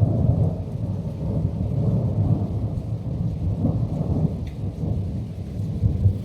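Rolling thunder, a continuous deep rumble that swells and fades in waves without a sharp crack.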